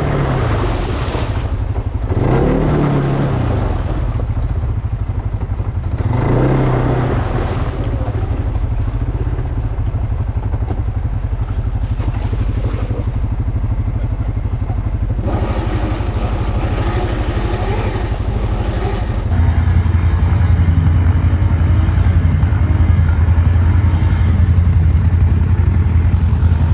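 ATV engine running under way, its revs rising and falling a few times. About 19 seconds in the sound changes abruptly and the engine drone gets louder.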